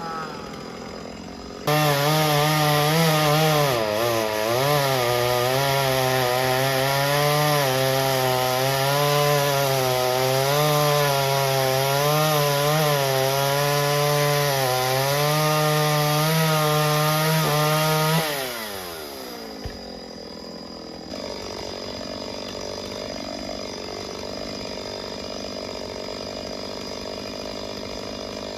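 Two-stroke chainsaw at full throttle cutting wood. The engine note wavers up and down as the chain loads and frees in the cut. About 18 seconds in the throttle is released and the pitch winds down to a quieter, lower running.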